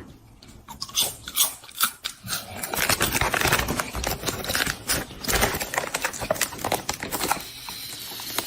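A dog chewing something crunchy: rapid, irregular crunching and crackling that goes on for several seconds and thins out near the end.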